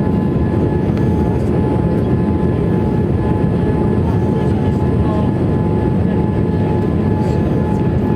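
Steady cabin noise inside a Boeing 787-8 airliner: a constant low rush of engine and airflow noise, with a faint steady whine over it.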